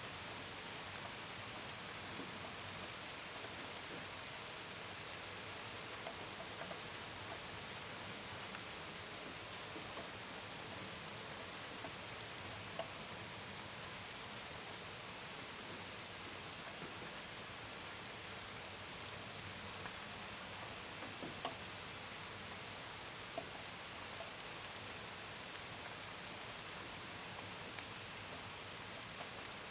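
Steady gentle rain, a constant hiss with scattered drops tapping on a window and gutters. Crickets chirp through it in a high, unbroken run of pulses.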